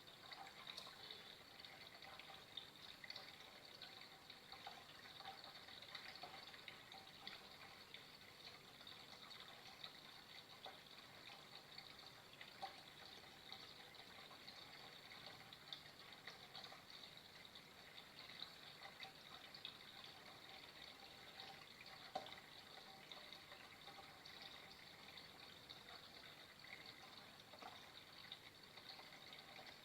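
Water flowing steadily, a quiet even trickle with many small splashes and drips.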